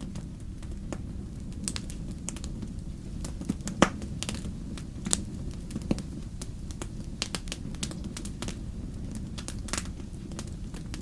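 Wood fire in a fireplace crackling, with irregular sharp pops and snaps over a low, steady rumble of burning; the loudest pop comes about four seconds in.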